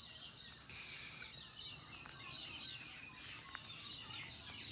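Several birds chirping and calling together, with a few short clear whistles among the chirps.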